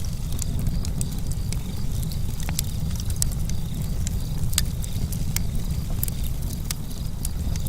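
Campfire burning, its wood crackling with irregular sharp pops over a steady low rumble.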